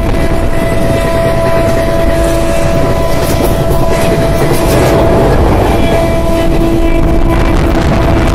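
Passenger train running at speed, heard from an open coach doorway: a loud, steady rumble of wheels on the track mixed with wind on the microphone, with a few steady whining tones over it.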